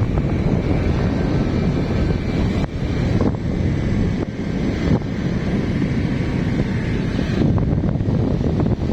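Wind rushing and buffeting over the microphone of a moving motorcycle, with the engine running steadily beneath it.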